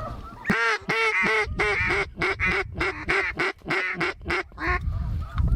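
Mallard duck call blown in a rapid run of loud quacks, about four a second for some four seconds, calling to incoming mallard drakes.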